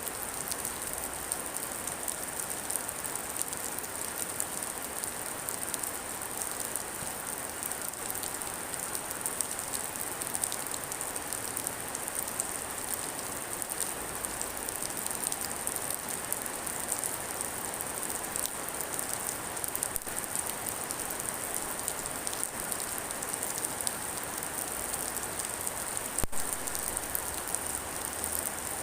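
Steady rain falling, many small drop ticks over an even hiss, with a single sharp knock near the end.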